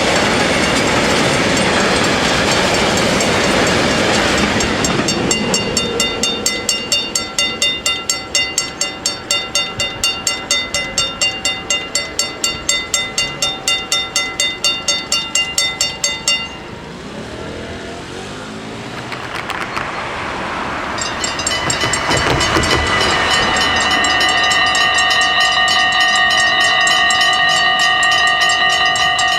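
A train passes over an automatic half-barrier level crossing. The crossing's warning bells then ring at about three strokes a second for roughly ten seconds and cut off suddenly. After a rising rush of noise, the bell sound sets in again as a steady ringing tone for the last several seconds.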